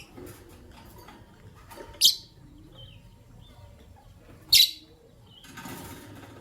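Lovebirds calling: two loud, sharp, shrill calls about two and a half seconds apart, with faint softer chirps between them and a short rustle near the end.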